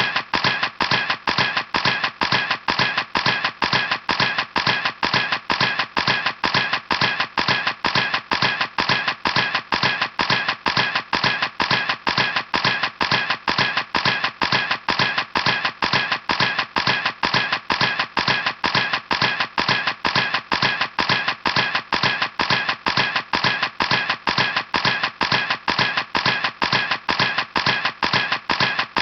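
Camera shutter clicking over and over at an even pace, about three clicks a second, each click the same.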